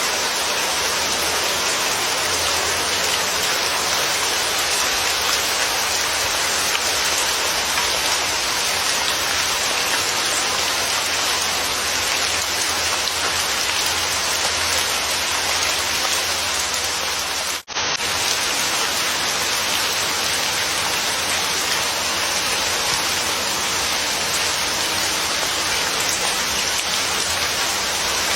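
Steady, even rainfall. It cuts out for a split second about two-thirds of the way through, then carries on unchanged.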